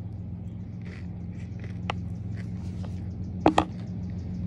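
Someone chewing a mouthful of crisp lettuce and tuna salad, with soft scattered clicks and two sharp clicks about three and a half seconds in, over a steady low hum.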